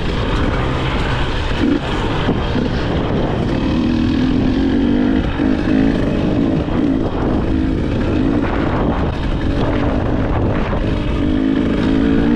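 KTM 300 XC-W TPI two-stroke dirt bike engine running under way, its pitch rising and falling with the throttle.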